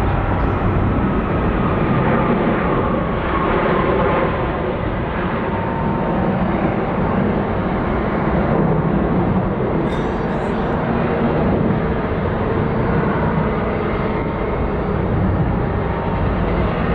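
Widebody jet airliner engines running loudly and steadily, a deep even rumble with no rise or fall.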